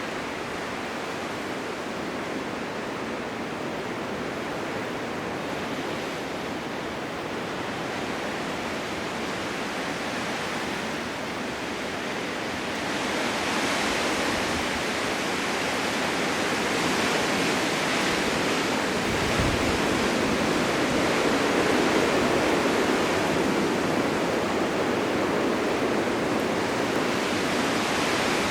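Blizzard wind blowing as a steady rushing noise, growing louder and brighter about halfway through.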